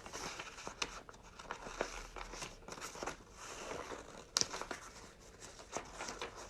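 Scissors cutting construction paper: a run of irregular snips with paper rustling, and one sharper click a little past halfway.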